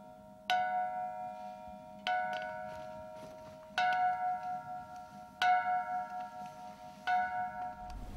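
A resonant metal object struck five times at an even, slow pace, about every second and a half. Each strike rings on with bell-like tones that fade slowly before the next one.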